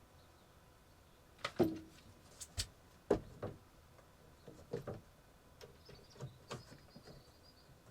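Irregular light knocks and clicks, about a dozen spread over several seconds: handling screws and panels during shed repair work.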